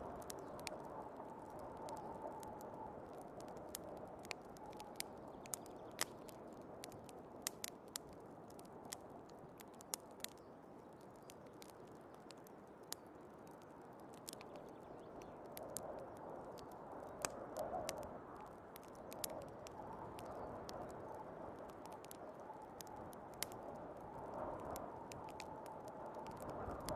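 Fireplace crackling with scattered sharp pops over a steady rush of snowstorm wind. The wind swells and eases, rising a little about two-thirds of the way through.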